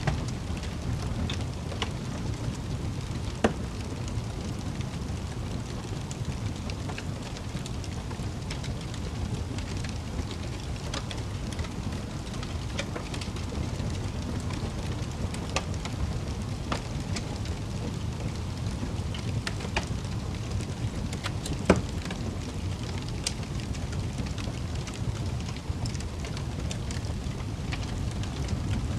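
Wood fire burning in a fireplace: a steady low rumble of flames with scattered crackles and snaps, two louder pops about three seconds in and near twenty-two seconds.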